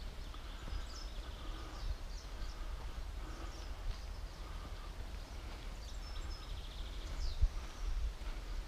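Faint birdsong: scattered short, high chirps and trills, over a low rumble on the microphone.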